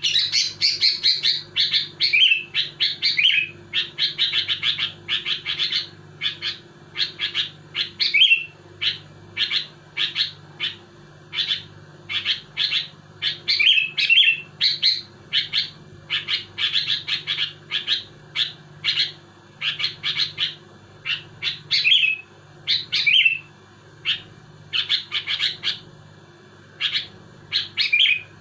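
Sooty-headed bulbul singing persistently: quick bursts of short, bright chirping notes repeated every second or so, with hardly a pause. A faint steady low hum runs underneath.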